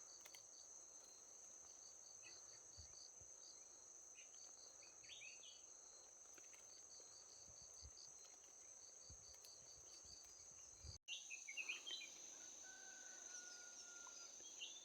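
Insects droning in a steady high buzz with a faster pulsing chirp beneath it, heard faintly, with a few short bird chirps scattered through. The sound cuts out for an instant about eleven seconds in, and a bird then gives a thin level whistle.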